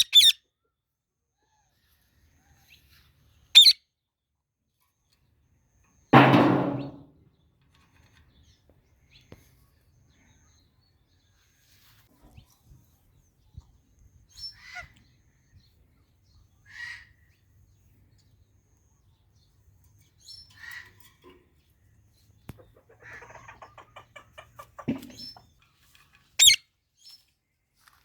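Indian ringneck parrots calling: short, sharp, very high-pitched calls every few seconds, with quieter chirps between them. There is one louder, lower burst about six seconds in and a quick run of soft chattering near the end.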